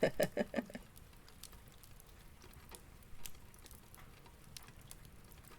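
Quiet fireplace-and-rain ambience: a soft patter of rain with scattered small crackles from the fire. A brief voice sound trails off in the first second.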